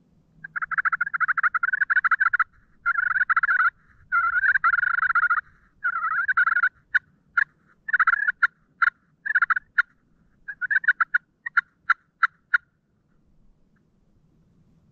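Turkey calls: several long runs of rapid rattling notes, then a string of short, sharp single notes that stop about two-thirds of the way through.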